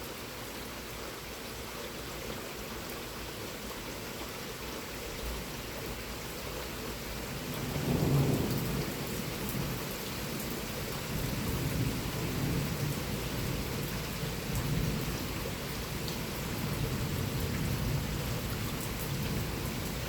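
Rain falling steadily, with a roll of thunder that swells to its loudest about eight seconds in and keeps rumbling low through the rest.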